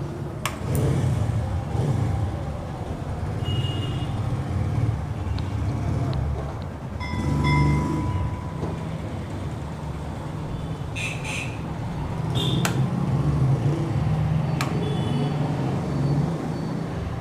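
Steady low rumble of road traffic, with a few brief high tones and several sharp clicks.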